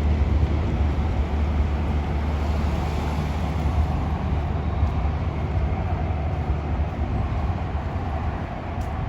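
Light-rail train passing, a steady low rumble.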